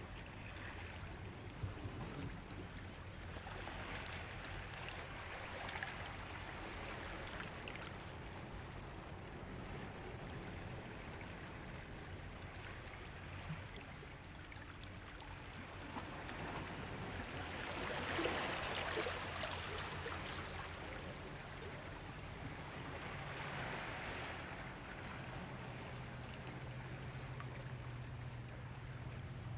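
Ocean waves washing in gently over a steady wash of water, swelling in slow surges with the biggest about eighteen seconds in.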